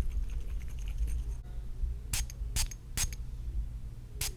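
Cologne spray bottle pumped in quick squirts: three short hissing sprays about halfway through, evenly spaced, then another right at the end.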